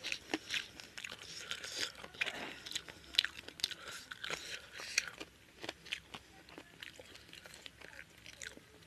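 Close-miked eating sounds of a man eating chicken curry and rice by hand: chewing with many short, sharp wet clicks, busiest for the first five seconds, then thinning out.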